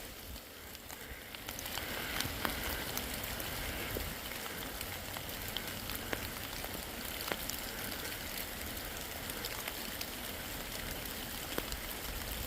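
Steady rain falling in a forest, an even hiss with scattered raindrops ticking close by, growing louder about a second and a half in.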